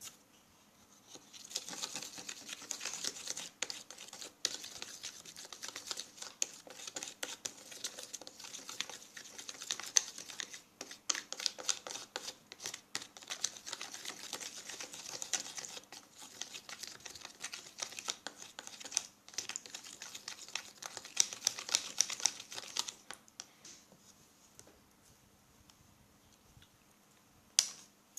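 A utensil stirring a shampoo and salt mixture in a small container: a dense run of rapid small clicks and scrapes that stops about 23 seconds in, followed by a single sharp click near the end.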